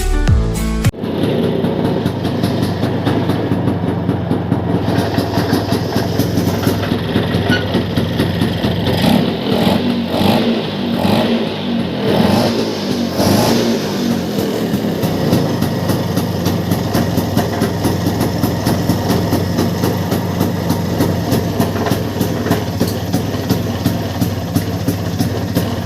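Bajaj Chetak scooter's two-stroke single-cylinder engine running at idle, revved up and down a few times in the middle, then settling back to a steady idle.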